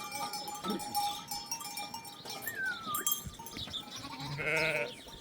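Sheep bleating in a flock, with one loud, wavering bleat near the end.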